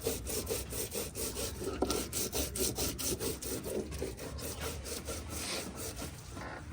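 Hand grinding on a Nepali silauto, a stone slab with a stone roller, scraping back and forth in a steady rhythm of about three strokes a second. It is crushing chillies and tomatoes into an achar paste.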